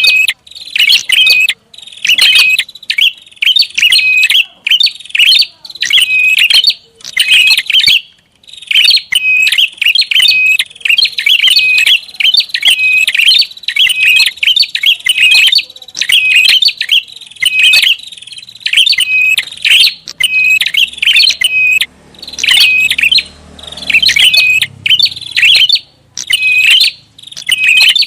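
Prinia (prenjak) lure call: loud, rapid chirping phrases about a second long, repeated over and over with short pauses between them.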